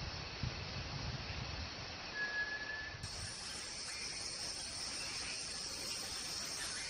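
Rainforest ambience: a steady high insect chorus, with a brief single high whistled note about two seconds in. The hiss brightens about three seconds in.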